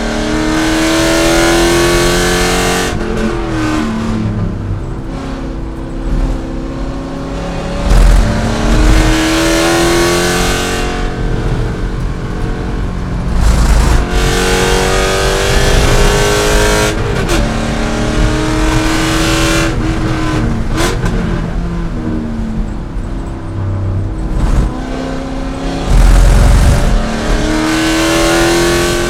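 C5 Corvette's V8 racing at full throttle, rising in pitch through each gear and dropping back at the upshifts and lifts, several times over. There are a few heavy low thumps along the way.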